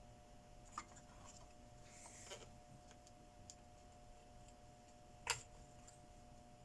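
A few small clicks and taps of handling at a workbench, the sharpest about five seconds in, over a faint steady hum.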